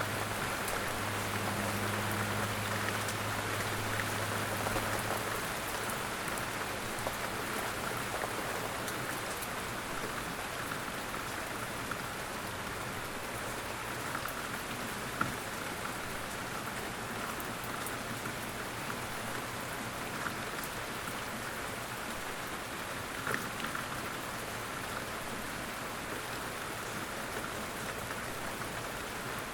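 Steady light rain falling in woods, an even patter with a few sharper drop hits scattered through it. A faint low hum fades out within the first dozen seconds.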